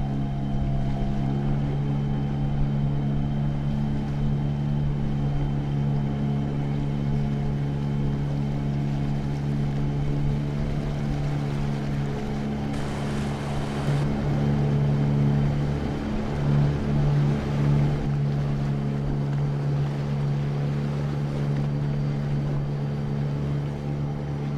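Motorboat engine running steadily under way on a river, a constant drone, with a brief hiss about 13 seconds in.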